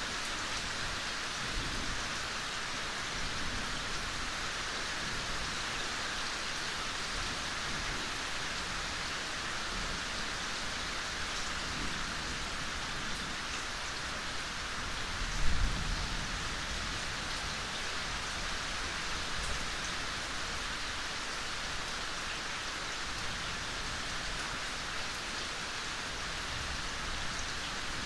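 Steady gentle rain falling in a forest, an even hiss of many drops. About halfway through, one brief low thump stands out above the rain.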